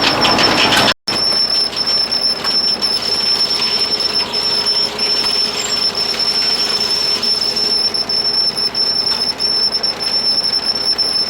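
A steady high-pitched whine held over an even, noisy mechanical running sound, starting abruptly about a second in.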